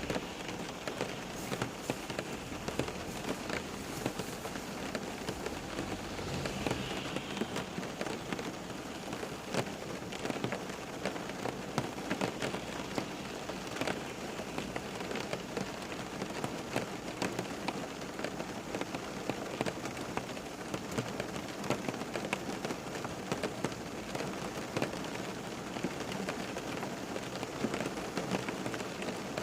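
Steady rain falling onto a surface, dense and even, with many individual drops tapping sharply throughout.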